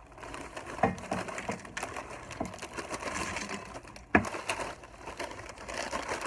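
Crunchy chips being chewed close to the microphone: dense crackling crunches, with a sharp loud crunch about a second in and another about four seconds in.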